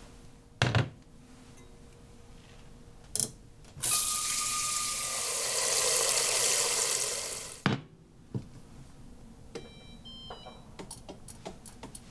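Kitchen tap running for about four seconds, water pouring into a sink, after two sharp knocks. Near the end come light clicks and a few short electronic beeps.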